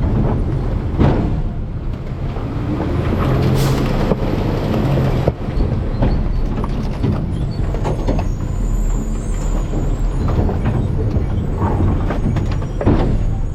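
Garbage truck's diesel engine running steadily while the rear hopper's hydraulic packer compacts trash, with repeated crunches, cracks and knocks from the load being crushed.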